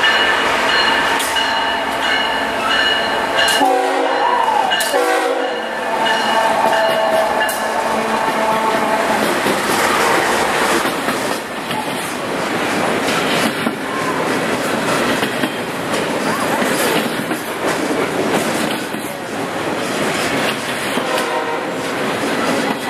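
A passing train sounds its air horn, several notes at once held for about the first eight seconds. The train then runs past with steady rail noise and wheel clatter.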